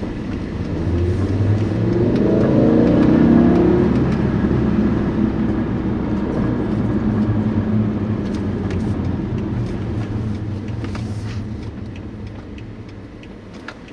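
BMW M5 E60's V10 engine revving up under hard acceleration, its note rising in pitch and loudness for the first few seconds, then easing off into a steadier, slowly fading drone.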